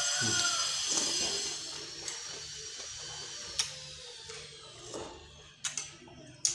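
Eating at a bowl of bakso: soft chewing and mouth noises, with a few sharp clicks of a spoon against the bowl in the second half. A faint high whine fades out over the first few seconds.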